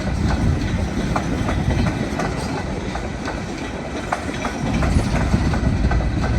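A coal train's cars rolling past with a steady low rumble and the wheels clicking over the rail joints every fraction of a second.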